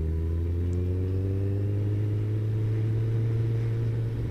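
Kawasaki ZZR1400 motorcycle's inline-four engine running steadily while riding at cruising speed, its pitch rising gently over the first couple of seconds and then holding.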